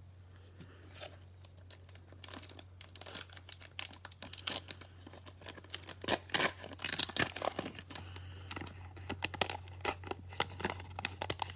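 Plastic cellophane wrapper of a Prizm football cello pack being torn open and crinkled: a rapid, irregular run of crackles and rustles starting about two seconds in, over a steady low hum.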